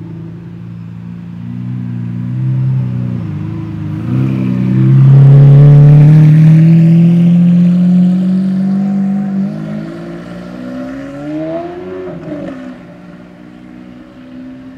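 Lamborghini Aventador Roadster's V12 with factory sport exhaust accelerating, its note rising steadily and at its loudest about five seconds in. Near the middle the pitch drops at a gear change, it rises briefly again and falls, and then the sound fades.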